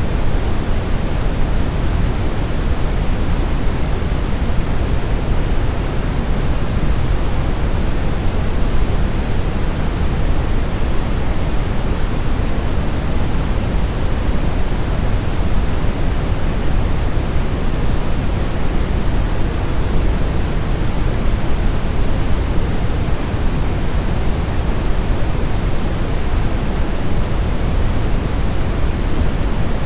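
Synthetic brown noise: a steady, unbroken rumbling hiss, heaviest in the bass and falling off toward the treble, with no changes.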